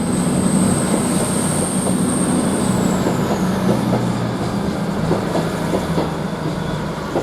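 CrossCountry Class 221 Super Voyager diesel-electric unit pulling away, its underfloor diesel engines running under power. A high thin whine falls away about three seconds in, and a few wheel clicks over the rails follow.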